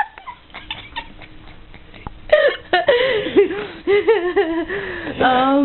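A person laughing in short, broken bursts with hiccup-like gasps, ending in one held vocal tone near the end.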